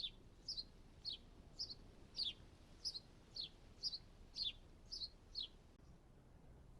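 A small songbird singing a repeated two-note phrase: a short high note, then a lower note that slides down, about two notes a second, five times over, stopping near the end.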